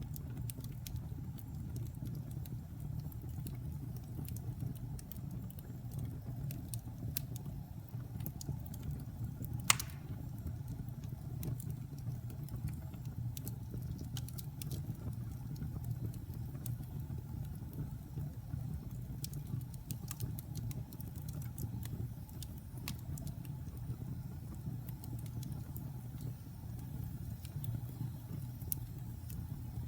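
Wood fire burning in a fireplace: logs crackling with scattered sharp clicks over a steady low rumble, and one loud pop about a third of the way in.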